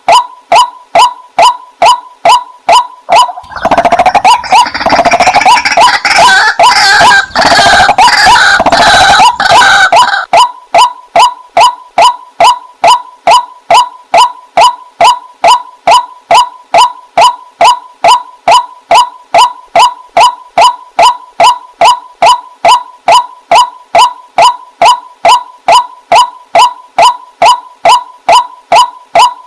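Waterhen calling: a monotonous run of short croaking notes, about three a second. From about 4 to 10 seconds in, a louder, denser burst of overlapping harsh calls joins them.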